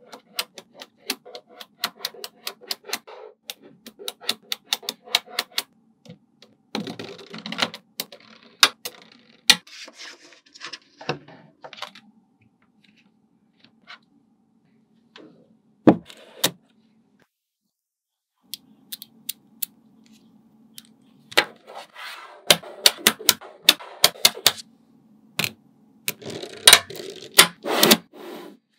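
Small magnetic balls clicking and snapping against one another as they are placed and pressed into a build, in quick irregular runs of sharp clicks with a few pauses.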